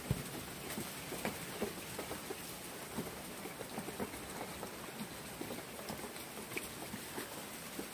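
Rain falling, with drops pattering and ticking irregularly on surfaces; a single low thump right at the start.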